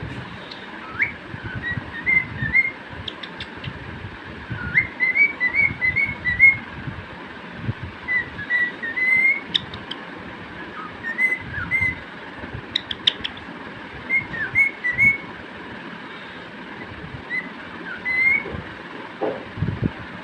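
Cockatiel whistling its song in short phrases of quick, mostly rising notes, with pauses between phrases, over a steady background hiss.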